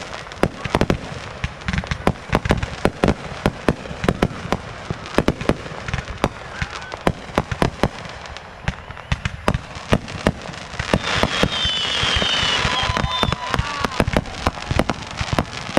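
Aerial fireworks shells bursting in an irregular run of sharp bangs, often several a second. About eleven seconds in, a dense hiss builds under the bangs, with a few high whistles.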